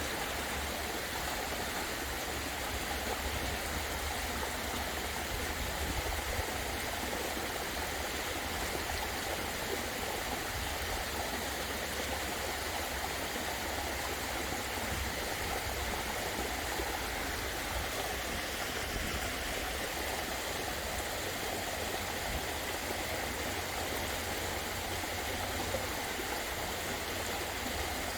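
Waterfall running: a steady rush of falling water with an unbroken, even roar and some low rumble underneath.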